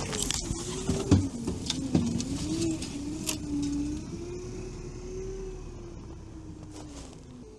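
All-terrain vehicle's engine running, its pitch rising and falling, with several knocks in the first two seconds and a sharp click a little over three seconds in. The engine sound slowly fades toward the end.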